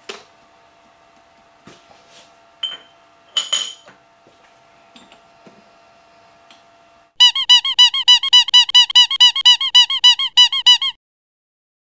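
A few faint clicks, then a brass-faced hammer rapidly tapping a steel workpiece down in a milling-machine vise, about five or six ringing taps a second for nearly four seconds, seating the part before the next cut.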